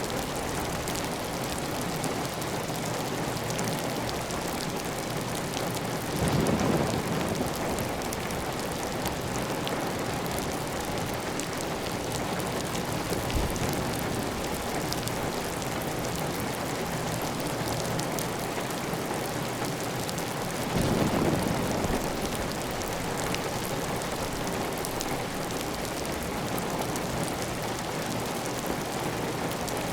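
Steady heavy rain on a clay tile roof, with water running off the roof edge. Two brief louder swells come about six seconds in and again about twenty-one seconds in.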